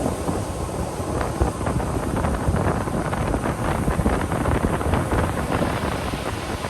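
Ocean surf breaking and washing up the beach: a continuous rushing hiss with crackling foam, swelling through the middle and easing near the end, with wind rumbling on the microphone.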